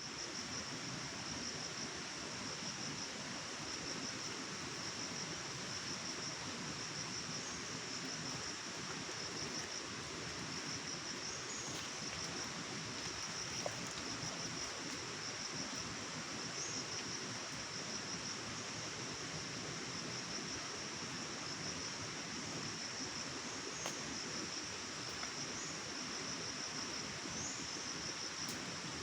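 Steady rushing of flowing water in a forest stream, with a continuous high, pulsing trill of insects over it and a few brief faint high chirps.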